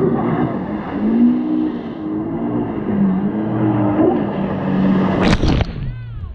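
Jet ski engine running, its pitch rising and falling as the throttle changes. A brief loud rush of noise comes near the end.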